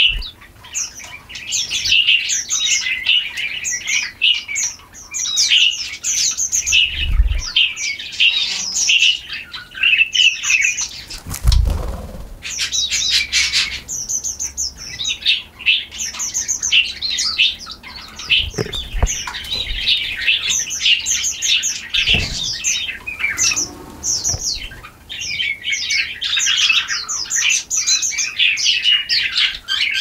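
Many small birds chirping and twittering rapidly and almost without a break, with a few low thumps in between.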